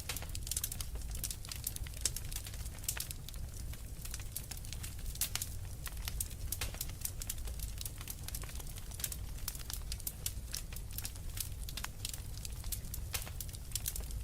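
Wood fire burning in a fireplace, with many quick irregular crackles and pops over a steady low rumble.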